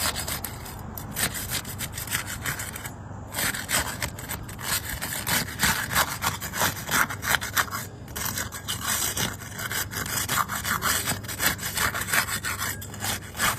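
Metal putty knife being worked under asphalt roof shingle tabs to break their sealant strips. It makes quick, repeated scraping strokes, with short pauses about three and eight seconds in.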